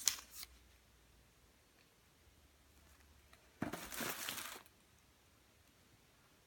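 A brief click, then about a second in the middle of handling rustle and crinkle from firework boxes and their packaging being moved.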